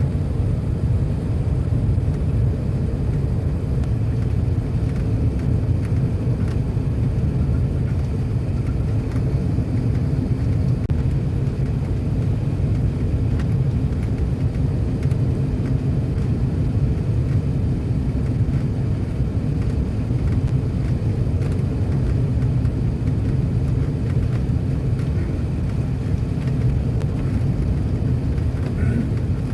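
Steady low rumble inside the cabin of an Emirates Airbus A380 on approach to land: engine and airflow noise heard from a passenger seat, even in level throughout.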